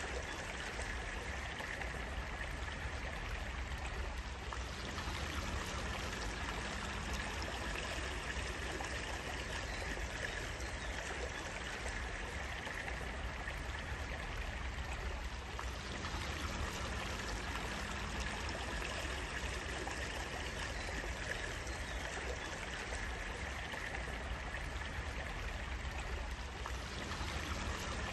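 Water in a stream flowing steadily, an even rushing that does not let up.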